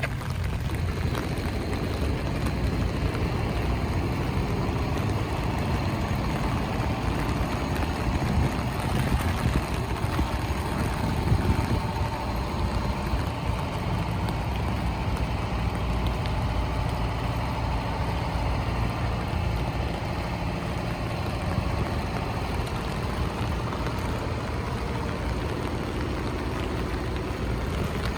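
City street traffic in the rain: vehicle engines running as a steady low rumble, under an even hiss of rain and wet road.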